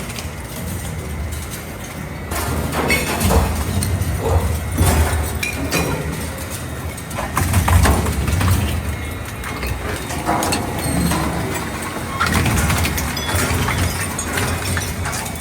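Double-shaft shredder tearing aluminum scrap: a steady low motor drone under irregular metal crunching and cracking. The crunching grows heavier about two seconds in and again near the end.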